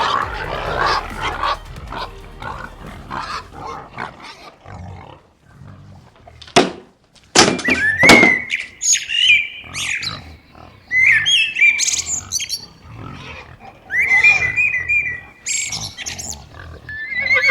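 Pigs squealing and grunting, with short high squeals coming in several times in the second half. A few sharp knocks sound around the middle.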